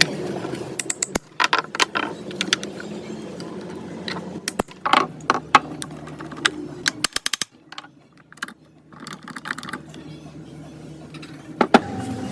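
Metal parts and hand tools clicking and clinking as they are handled, in quick irregular knocks, with a short quiet pause about two-thirds of the way through.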